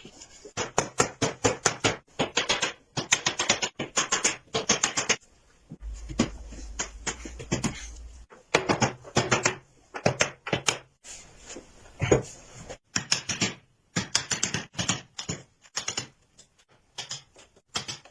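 Quick irregular runs of sharp taps and clicks, several a second, in bursts with short pauses. A low hum joins them from about six to eight seconds in.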